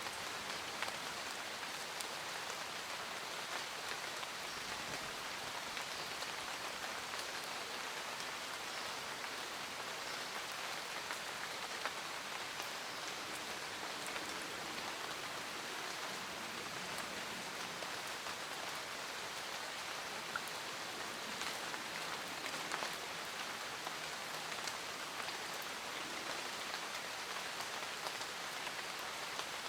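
Steady rain falling, a dense even patter with scattered individual drops ticking.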